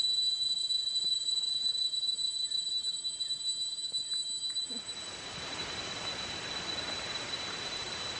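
Jungle insects droning in several steady high-pitched tones. About five seconds in, the sound changes abruptly to a steady rushing of falling water, with the insect tone still going.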